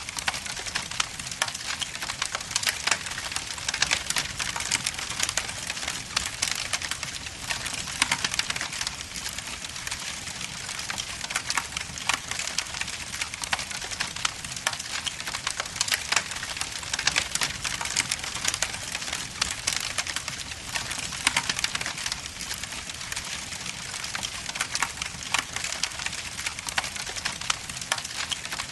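Wood logs burning in a fireplace, with a constant crackle of many small sharp pops and snaps over a soft hiss.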